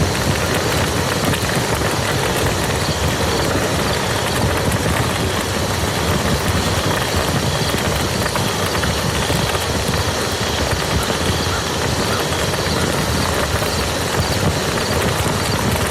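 Steady rain falling on a muddy field: an even, unbroken hiss of drops.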